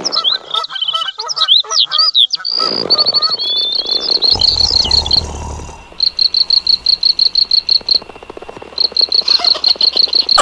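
Bird chirps for the first couple of seconds, then a rapid, evenly repeating high chirp at about six a second, like a frog or insect chorus. A brief low rumble comes near the middle.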